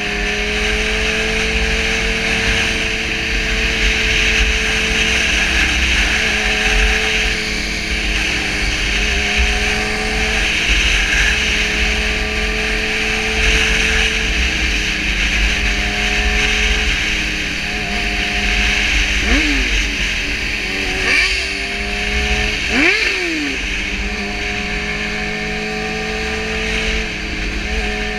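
600cc inline-four sport motorcycle engine running at a steady cruise, its pitch shifting a little with the throttle, under a steady rush of wind hiss. A few quick rising engine notes come in about twenty seconds in.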